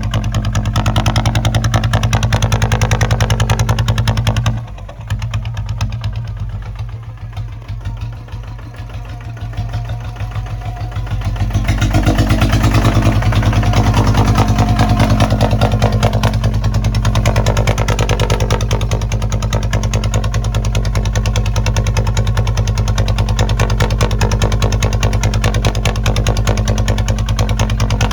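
Kubota ZT155 single-cylinder diesel engine running steadily. About four seconds in its sound drops off, then builds back up over the next several seconds and runs at full strength again.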